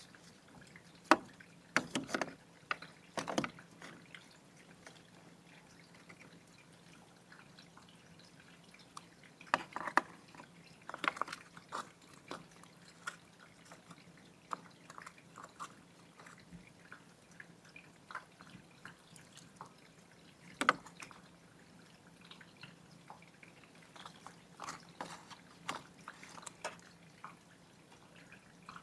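Quiet handling sounds of plant care: scattered light clicks and taps with brief rustles, bunched in a few spells, some of them drip-like.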